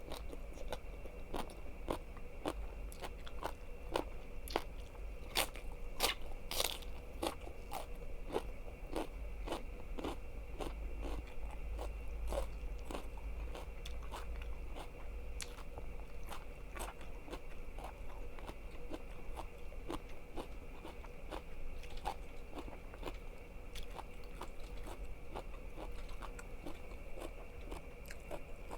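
Close-miked biting and chewing of crisp food: a quick run of sharp crunches, densest in the first half and thinning out later.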